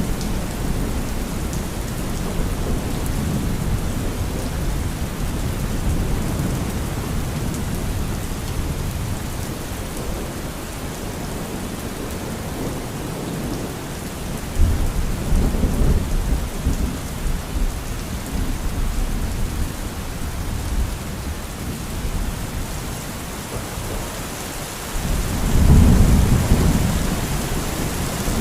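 Steady heavy rain with rolling thunder: deep rumbles swell at the start, a sharper low crack of thunder comes about halfway through, and the loudest roll of thunder builds near the end.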